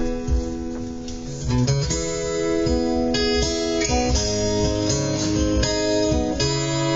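Acoustic guitar strumming chords in an instrumental break of a live song, with no singing. The playing thins out briefly about a second in, then the chords come back fuller.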